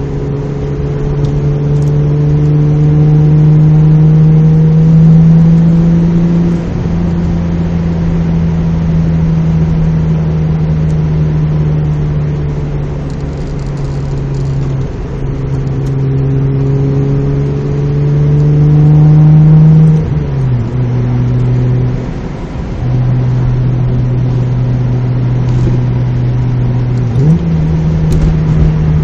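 Mazda MX-3 GS's 1.8-litre V6 and its freer-flowing exhaust (2 1/4-inch pipe, test pipe in place of the catalytic converter, Magnaflow Street Series muffler), heard from inside the cabin while driving. The engine note climbs slowly under load and drops suddenly several times, as at gear changes, about 7, 15 and 20 seconds in.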